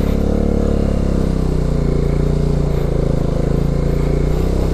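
Motorcycle engine running steadily under load while riding through thick mud. Its pitch sags slightly over the first second or so, then holds even.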